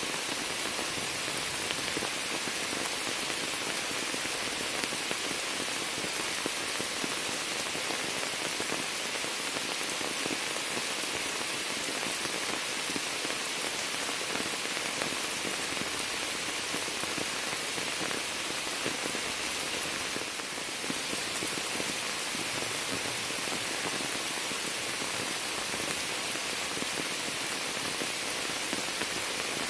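Rain falling steadily into a sheet of standing water and onto the leaves of a shrub: a dense, even hiss of many drops.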